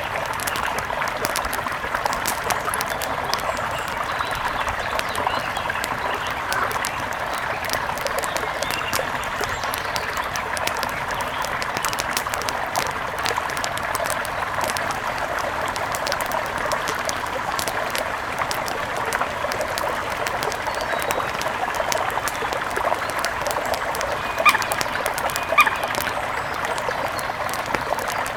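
Steady rush of a mountain river, with many fine clicks and splashes through it. Two short bird calls near the end.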